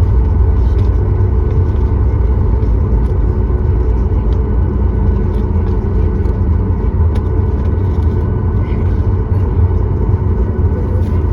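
Steady loud rumble inside the cabin of a Boeing 737-9 MAX, mostly low engine and airflow noise, with faint steady tones above it.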